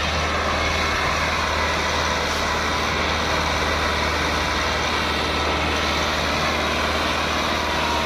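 Millat tractor's diesel engine running steadily at high revs, a constant deep engine note with no break.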